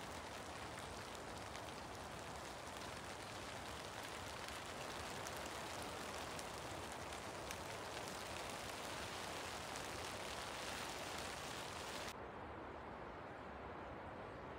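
Steady hiss of light rain falling in woodland, with faint scattered drop ticks; the higher part of the hiss drops away suddenly about twelve seconds in.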